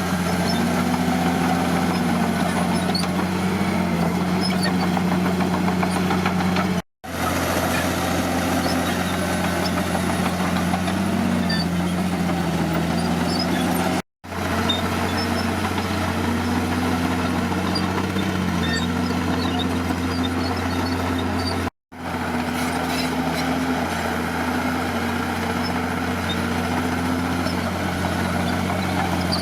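Diesel engine of heavy earthmoving equipment running steadily under work, its pitch rising and falling a little as the revs change. The sound drops out completely for a moment three times.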